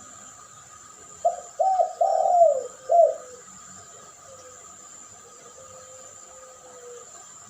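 Dove cooing: a single phrase of four low notes starting about a second in, the third the longest and falling in pitch, followed by a fainter drawn-out coo later on. This is a lure call for puter and derkuku doves.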